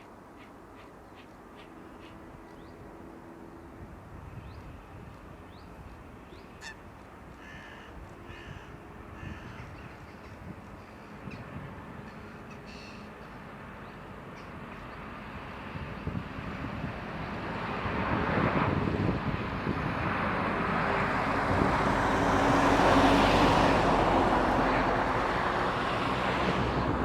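Birds calling against a quiet background, then the engine noise of a jet airliner passing. The noise builds from about the middle and is loudest near the end.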